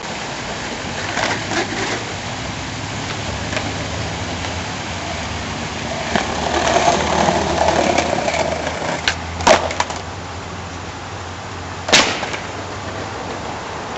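Skateboard wheels rolling over pavement, with a few sharp clacks of the board hitting the ground; the loudest clacks come about nine and a half and twelve seconds in.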